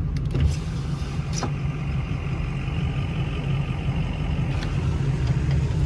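Truck engine idling, a steady low rumble heard from inside the cab, with a couple of light clicks in the first second and a half.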